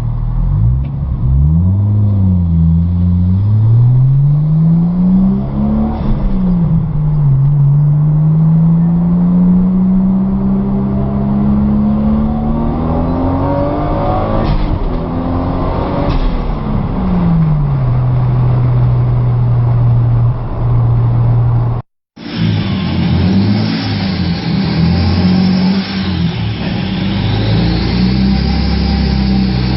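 Turbocharged Toyota Supra Mk4 engine being revved: the pitch rises and falls twice, then climbs steadily for several seconds before dropping back to a steady idle. After a brief cut, the engine runs on at a steady, uneven idle with more hiss.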